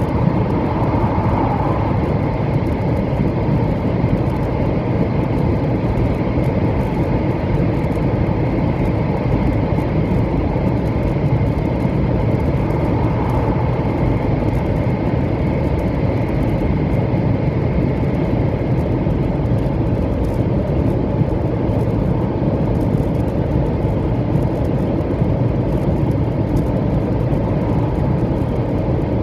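Steady running noise inside a 700 series Shinkansen train at speed: a constant rumble of wheels on rail with a faint high whine.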